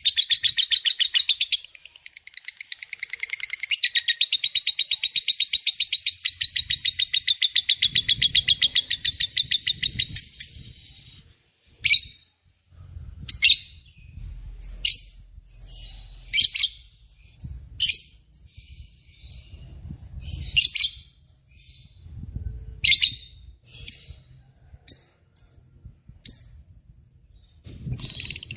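Lovebird's long, rapid chattering trill ('ngekek'), high-pitched and evenly pulsed, running for about eleven seconds, then breaking into single sharp chirps every second or two; the rapid trill starts again at the very end.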